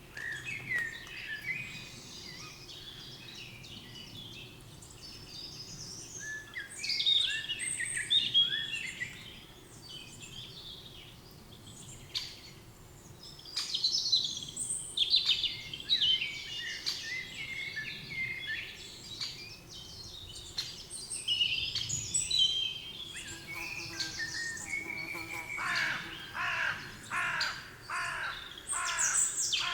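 Forest birdsong: several songbirds singing and chirping over one another in quick, high phrases. Near the end a harsher call repeats about twice a second.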